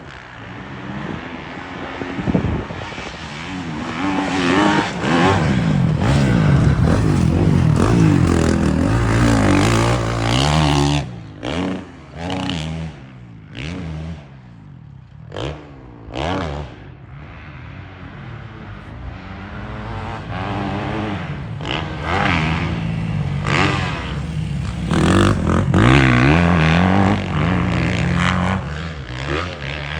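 Honda CRF250 dirt bike's four-stroke single-cylinder engine revving hard on a motocross track, its pitch climbing and dropping as the rider works the throttle and gears. About halfway through it comes in short throttle blips with gaps between, then it pulls strongly again near the end.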